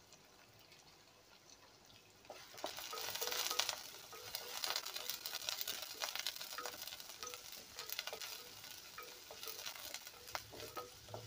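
Crushed garlic, chopped shallots and curry leaves sizzling in hot oil in a clay pot as a South Indian tempering (thalippu), stirred with a wooden spatula with small scrapes and taps. The sizzle starts about two seconds in, is loudest just after it starts, then settles to a steady crackle.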